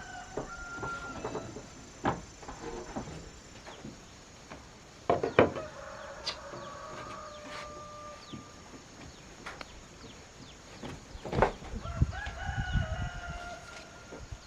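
Rooster crowing twice in long held crows, about five and twelve seconds in, with a shorter call near the start. Several sharp knocks are heard, the loudest just before each crow.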